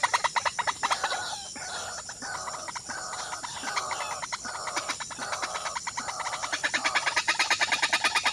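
Birds calling, with clucking like domestic fowl: a fast, even run of short notes, about ten a second, near the start and again near the end, and more broken calls between them.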